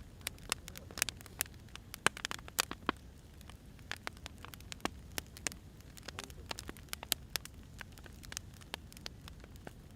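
Firewood burning, crackling with irregular sharp pops and snaps, several a second, over a low steady rumble.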